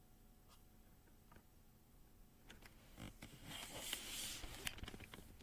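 Faint handling noise: a few scattered clicks, then a brief rustle a little past halfway through.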